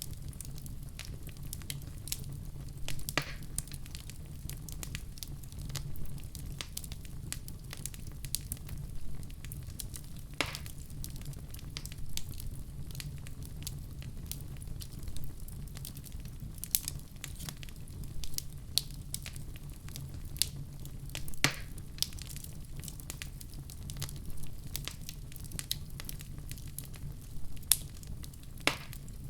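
Fireplace fire burning with a steady low rumble and constant small crackles, with four louder pops spread through.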